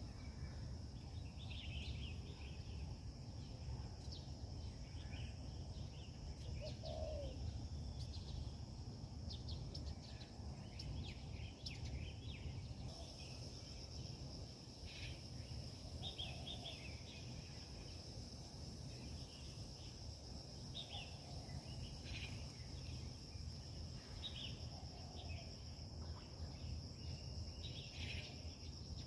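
Birds calling in short, scattered chirps over a steady high-pitched insect drone that grows louder about halfway through, with a low background rumble underneath.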